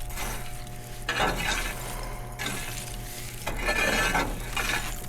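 Metal tool scraping and raking hot coals inside the open firebox of an outdoor wood boiler, in three long scraping strokes with some metallic clinks, over a steady low hum.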